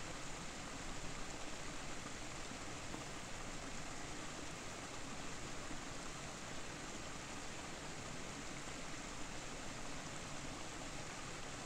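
Steady rushing of falling water from a waterfall: an even, unbroken roar with no distinct events.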